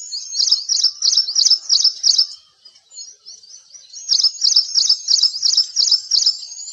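A songbird repeating a quick, high chirping call about four times a second, breaking off briefly about halfway through and then starting again.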